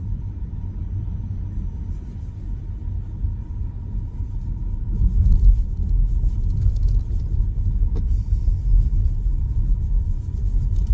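Low road rumble of a Tesla Model Y's tyres running over packed, uneven snow, heard inside the cabin; it grows louder about five seconds in, with a single click a little later.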